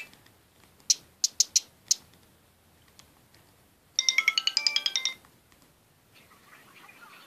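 Sony Ericsson W910i mobile phone playing tone previews through its small speaker while its menu is browsed: a few short sharp high sounds about a second in, then a rapid run of electronic notes lasting about a second from around four seconds in, and a faint melody near the end.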